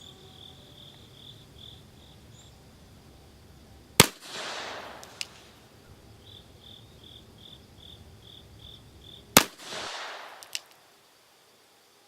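Two shots from a Smith & Wesson Victory model revolver firing 200-grain lead-bullet handloads, about five seconds apart, each with a short echo trailing off. Between them an insect chirps in short, evenly spaced high pulses, about four a second.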